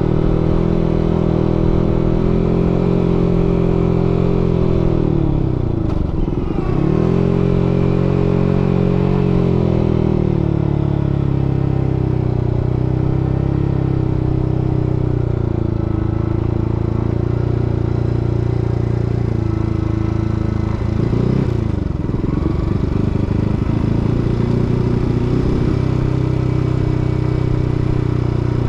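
Yamaha MT-15's single-cylinder engine running steadily while riding. The revs drop sharply and climb back twice, about six and twenty-one seconds in.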